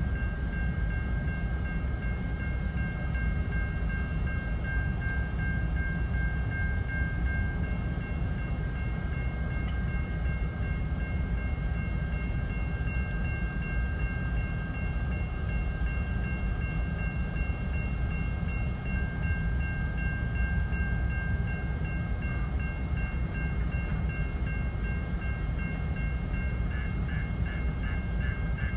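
Freight train of tank cars rolling through a grade crossing, a steady low rumble, heard from inside a car, with the crossing's warning bell ringing throughout. Near the end, as the train clears and the gates lift, the bell's strikes stand out separately, about three a second.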